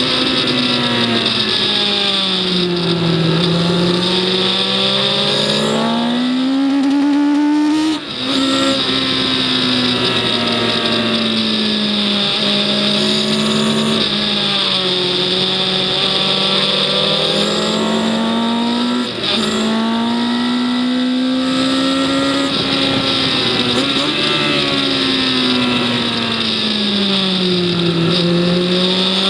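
On-board sound of a racing vehicle's engine lapping a circuit, its note sinking and climbing as it is driven through the corners. The sound drops away briefly about eight seconds in and again near nineteen seconds.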